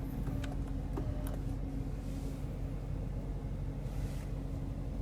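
Steady low hum inside a car's cabin, with a few light clicks in the first second and a half.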